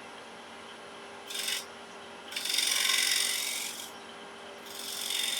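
Wood lathe running with a steady hum while a turning tool cuts a spinning sycamore bowl blank, making hissing shaving passes: a short one, then a longer, louder one, then another starting near the end.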